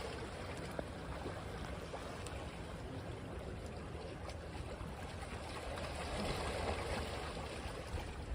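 Sea waves washing onto a beach, a steady rush that swells as a wave comes in about six seconds in and then eases.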